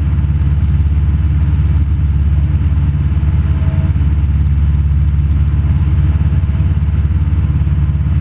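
Cessna 172 Skyhawk single-engine piston airplane in steady cruise, heard inside the cabin: an even, loud engine and propeller drone with airflow noise.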